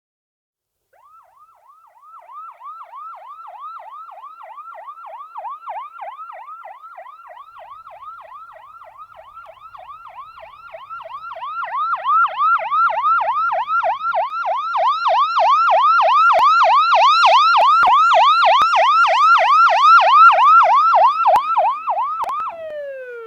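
Ambulance siren in a fast yelp, about three quick pitch sweeps a second. It starts about a second in and grows steadily louder, loudest in the last third. Near the end the sweeping stops and the pitch slides down.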